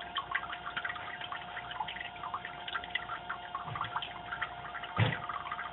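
Reverse osmosis/deionization water system running with a steady high-pitched buzzing tone, like a sizzling sound, over the gurgle and patter of water dripping from its output into the auto-shutoff float valve; a dull knock about five seconds in. Tech support puts the buzz down to a little air trapped in the system resonating, and calls it normal.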